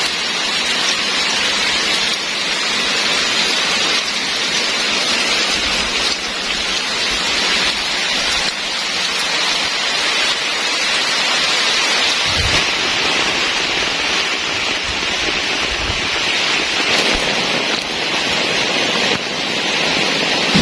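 Heavy rain pouring steadily, a dense even hiss, with a brief low rumble about twelve seconds in and again around sixteen seconds.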